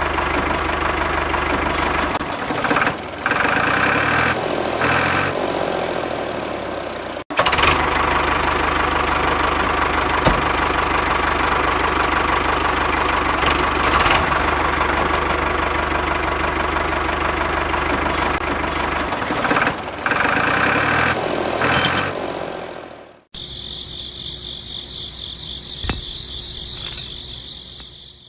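A steady engine-like running sound, cut off abruptly about a quarter of the way in and resuming at once. Near the end it gives way to a quieter, higher-pitched whine.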